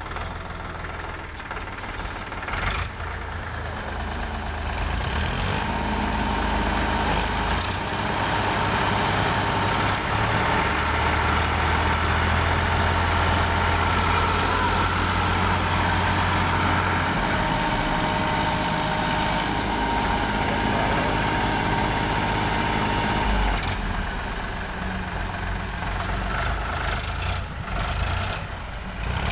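Diesel tractor engine running, growing louder about five seconds in, holding a steady heavy note, then easing back near the end.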